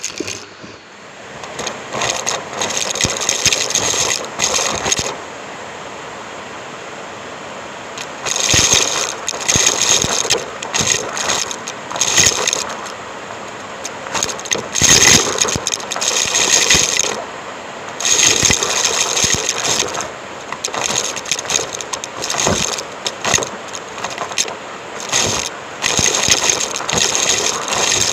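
Numatic James cylinder vacuum cleaner with a microphone fitted close, sucking up debris: irregular bursts of crackling and rattling as material goes through, over the steady run of the motor in the stretches between.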